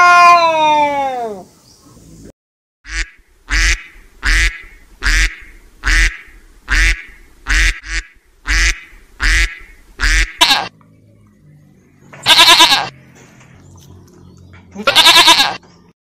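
A cat's meow trails off at the start, then a mallard hen quacks in a series of about a dozen short quacks a little under a second apart, followed by two longer, louder calls.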